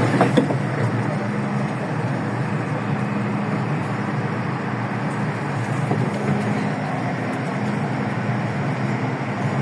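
Inside an MTR M-Train car: the steady rumble of the train running on the track under a low, steady hum, with a couple of short knocks right at the start.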